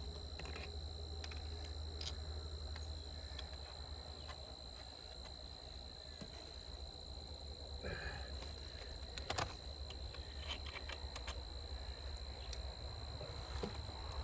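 Steady high-pitched insect drone over a low hum, with scattered faint clicks and knocks and one sharper knock about nine seconds in.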